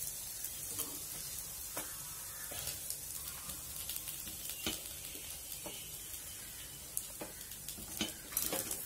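Oil sizzling steadily around kara paniyaram in a paniyaram pan, with scattered light clicks and scrapes of a spoon against the pan as the cooked paniyarams are lifted out.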